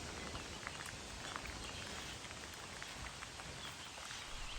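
Steady light rain hiss with scattered small ticks of drops.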